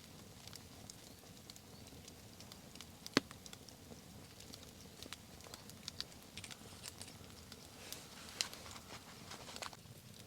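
Wood campfire crackling faintly, with scattered small pops and a sharp crack about three seconds in.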